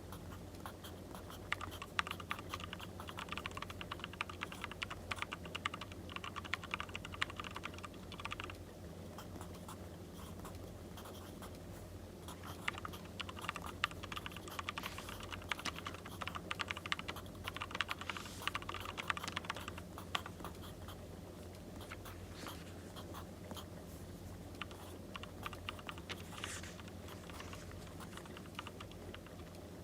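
Pencil writing on paper: two long stretches of quick scratchy strokes, with a sparser spell near the end, over a steady low hum.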